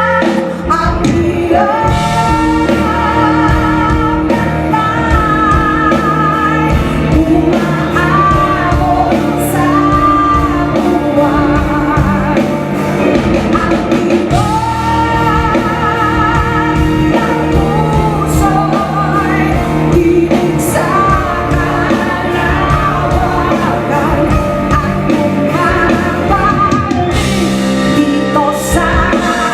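Live band music with a sung melody, long notes held with vibrato over a steady accompaniment, echoing in a large hall.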